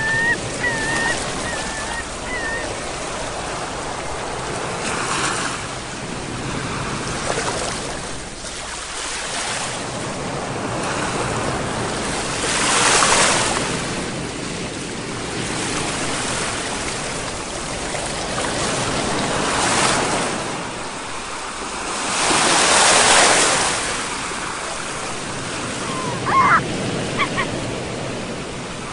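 Sea surf washing in continuously, with waves swelling and breaking loudest about 13 and 23 seconds in. A few short high pitched calls sound at the very start and again near the end.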